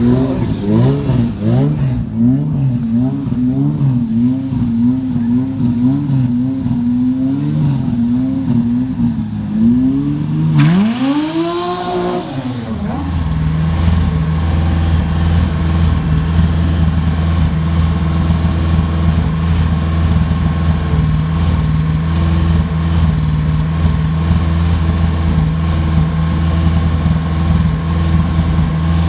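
Car engines revving: the pitch rises and falls in quick repeated blips for about ten seconds, then one big rev climbs and drops. After that comes a deep, steady engine drone.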